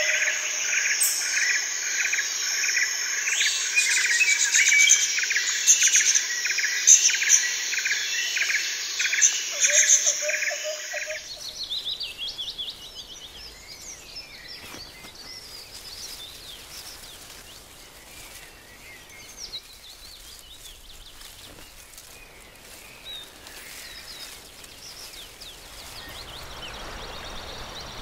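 Birds chirping in a rapid, repeating pattern. After about eleven seconds this drops to fainter outdoor background noise with scattered chirps.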